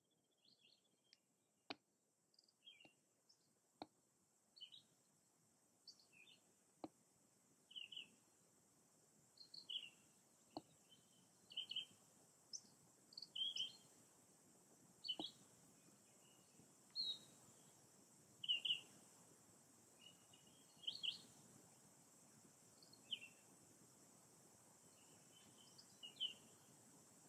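Faint bird calls: short high chirps repeated about once every second or so, with a few sharp clicks in the first half.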